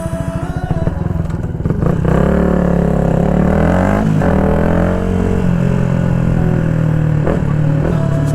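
2016 Yamaha MT-125's single-cylinder four-stroke engine through an Akrapovic full exhaust, ridden: it chugs at low revs for about two seconds, then accelerates with rising pitch. A gear change comes about four seconds in, then it runs fairly steadily, with two brief breaks near the end.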